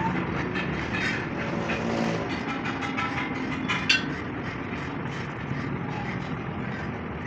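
Steady vehicle engine and road traffic noise, with a few sharp clicks or knocks, the clearest about four seconds in.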